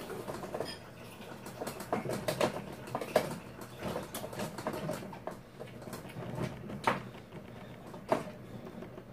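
A person chewing a mouthful of food: an irregular run of wet smacks and crunchy clicks, a few of them louder than the rest, around 3, 7 and 8 seconds in.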